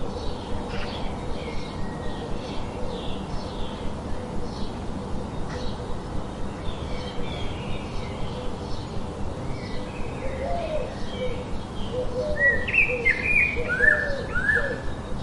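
Several birds chirping: a steady stream of short, high chirps, joined about ten seconds in by lower, repeated rising-and-falling calls and louder chirps that slide downward.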